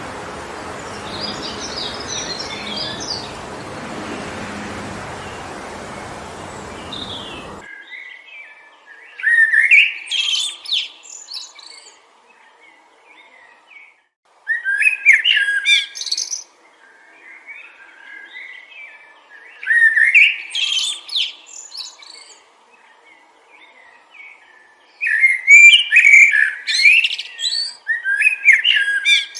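Wind rushing through forest trees, with faint bird chirps, cuts off suddenly about seven and a half seconds in. A songbird then sings loud, quick chirping phrases about two seconds long, four times, roughly every five seconds.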